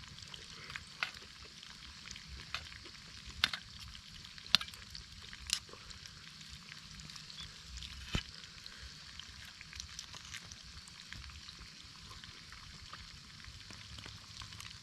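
Campfire crackling: a steady faint hiss with scattered sharp pops at irregular intervals.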